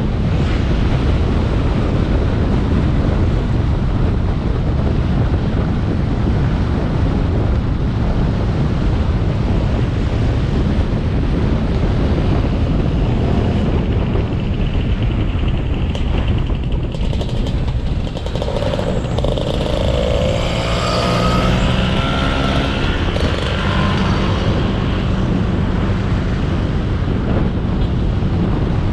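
Motorbike ride heard through a helmet- or bike-mounted action camera: a steady rush of wind on the microphone over the engine and road rumble. About two-thirds of the way in, a rising engine whine comes through for a few seconds as the revs climb.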